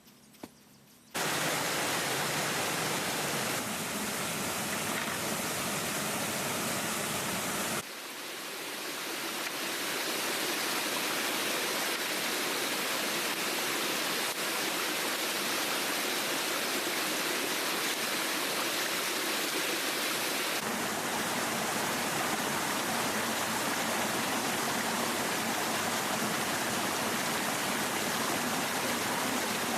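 Steady rushing of a waterfall, starting abruptly about a second in, with sudden shifts in level and tone a few times.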